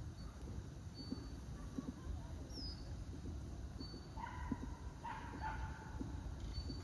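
Outdoor ambience with thin, high bird calls, short and repeated every second or so. About four seconds in come two louder, pitched yelping calls from an animal, the loudest sound here.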